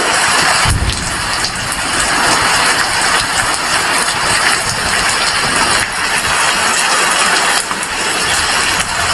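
Heavy rain falling steadily, a dense even hiss, with a brief low thump about a second in.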